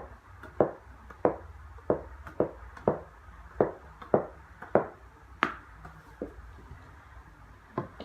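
Tennis ball being bounced repeatedly with a badminton racket: about a dozen sharp hits, roughly two a second, spacing out near the end with a longer gap before a final hit.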